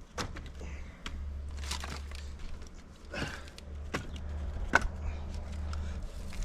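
Several sharp knocks of split firewood striking wood, spaced about a second apart, over a steady low hum.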